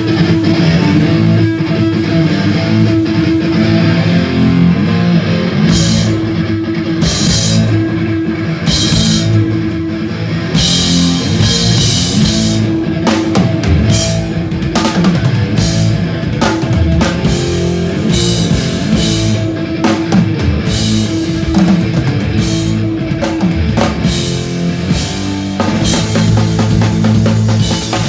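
Hardcore punk band playing a song live on stage, with electric guitars and a drum kit, loud throughout.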